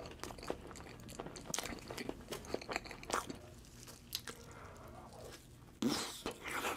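Close-miked mukbang eating sounds: wet chewing, lip smacks and small crackles of someone eating cake and dessert, with a louder bite near the end.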